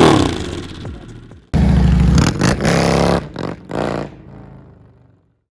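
V-twin motorcycle engine revved through aftermarket slip-on mufflers: one rev dying away, then after an abrupt cut a loud run with several quick throttle blips that fades out.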